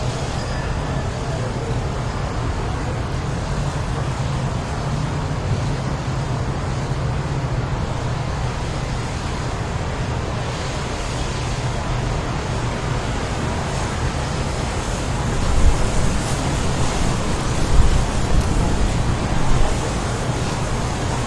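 Strong tornado-like wind blowing as a steady deep rumble, with a few louder gusts surging about three quarters of the way through.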